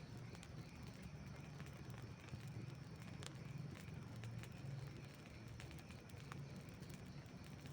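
Campfire burning: a low, fluttering flame noise with scattered sharp crackles and pops from the burning wood, a couple of them clearer about three and six seconds in.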